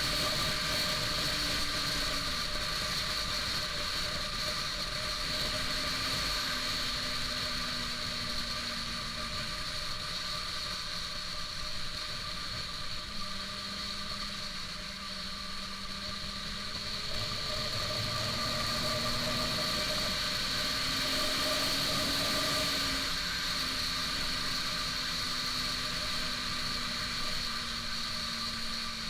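Honda CBR600RR's inline-four engine running at road speed under a steady rush of wind. The low engine note steps and slides in pitch several times as the speed changes.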